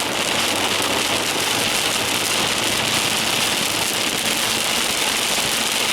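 Steady rain falling on a car, with the car's engine running underneath.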